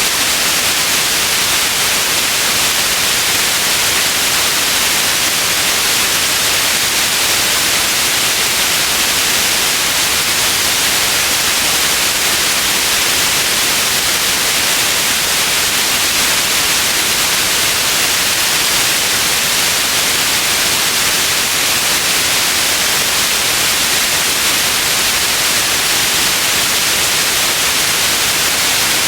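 Steady, unbroken white noise: an even, bright hiss with no change or events.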